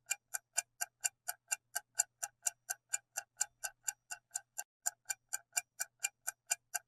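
Clock-ticking countdown sound effect, short sharp ticks at about four a second, marking the time left to answer a quiz question.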